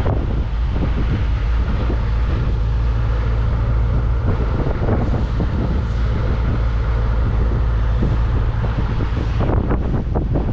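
A vehicle driving along with wind buffeting the microphone, a steady low rumble throughout, and a few short knocks or rattles near the end.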